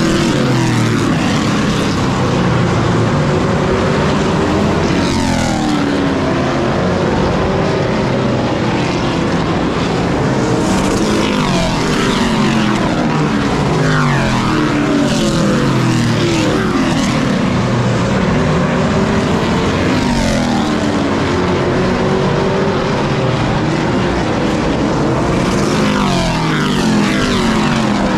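Race trucks' engines running hard around a short oval. Several engine notes rise and fall together, with a swell and drop every few seconds as trucks pass and go through the turns.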